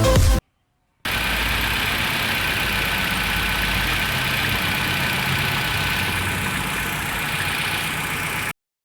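Nissan QR20DE 2.0-litre four-cylinder engine idling steadily, now starting and running after its crank-no-start fault (code P0335, crankshaft position sensor circuit) was solved. It cuts off suddenly near the end.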